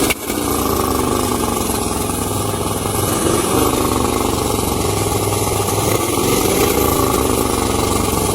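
Pickup truck engine running loud at high, fairly steady revs after a brief dip right at the start.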